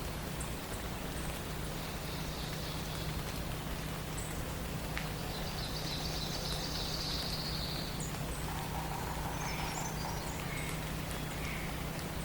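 Forest songbirds singing in a dawn chorus: several high trills and scattered chirps, with a lower buzzy trill near the end, over a steady hiss and a low steady hum.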